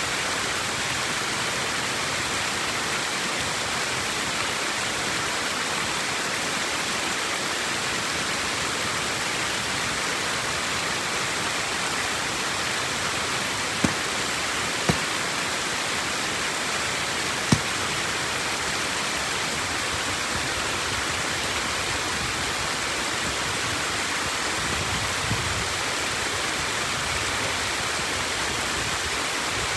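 Steady rush of flowing water. Three sharp knocks come about halfway through, close together.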